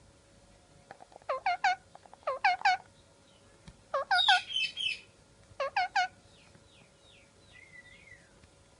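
Pet parrot calling in quick groups of two or three sharp notes, with a louder harsh chatter about four seconds in and soft warbling notes near the end.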